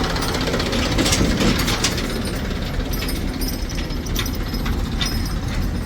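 Diesel engine of heavy machinery running steadily, with irregular metallic clicks and rattles over the rumble.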